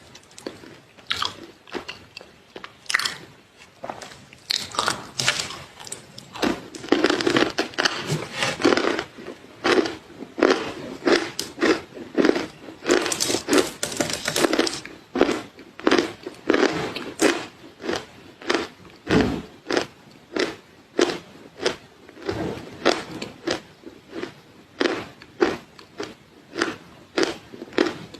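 Close-miked chewing of crunchy food, a steady run of sharp crunches about two a second, packed tighter in a couple of stretches.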